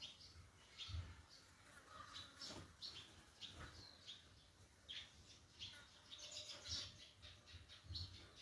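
Faint chirping of several small birds: many short, high calls scattered and overlapping, with occasional low bumps underneath.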